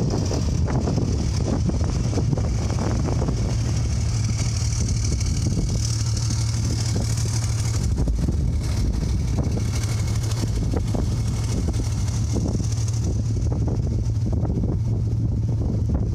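Ford F-650 medium-duty truck engine idling steadily with a constant low hum.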